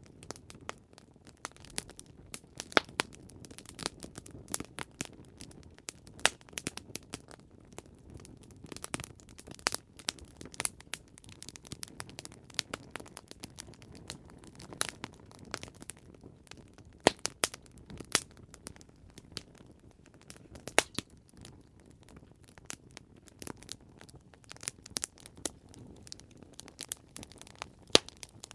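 Campfire crackling: wood burning with irregular sharp pops and snaps over a low, steady hiss of flame.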